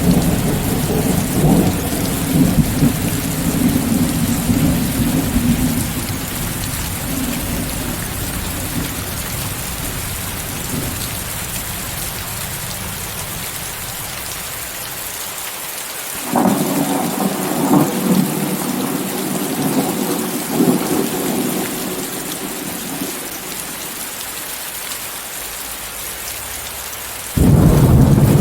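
Steady rain mixed with white noise, with rolling thunder: a rumble dying away over the first several seconds, another starting suddenly a little past halfway and fading, and a third starting abruptly near the end.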